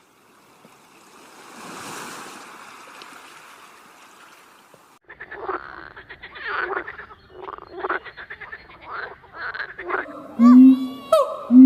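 A frog croaking in a rapid series of short calls, after a few seconds of faint hissing background noise. Near the end a louder, pitched animal call starts.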